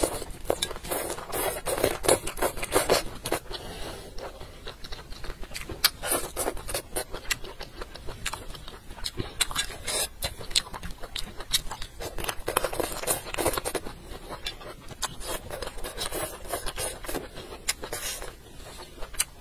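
Close-up eating sounds of crunchy spicy baby bamboo shoots being bitten and chewed: irregular crunches and wet mouth clicks, denser around two seconds in and again around thirteen seconds.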